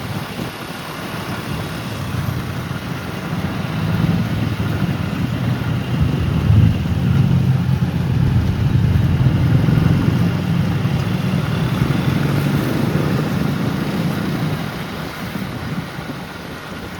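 An engine running with a low hum that grows louder about four seconds in and eases off near the end, like a motor vehicle passing close by.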